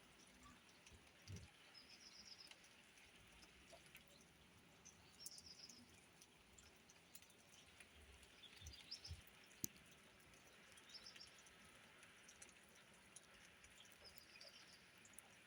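Faint bird chirps: short high trilled bursts every few seconds over a quiet outdoor background, with a few soft clicks.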